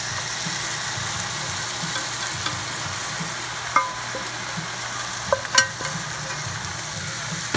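Shredded potatoes sizzling steadily in a frying pan as a sausage, pepper and onion mix is tipped in from a stainless steel pan. A few sharp metal clinks of pan or utensil against the pan come a bit under four seconds in and again around five and a half seconds.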